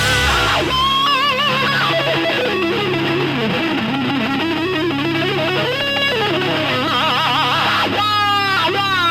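Distorted electric guitar soloing with sustained, bent notes and wide vibrato, including quick up-and-down bends near the end, over a bass line.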